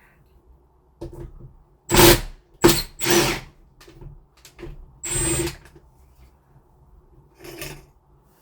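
Cordless drill-driver running in short bursts, backing out the screws that hold a door handle on: about five bursts of under half a second each, the loudest around two to three seconds in.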